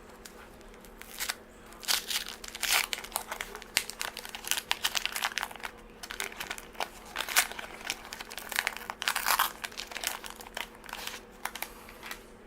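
A 1983 Fleer baseball card pack being torn open by hand, its wrapper crinkling and rustling in irregular sharp crackles for about ten seconds.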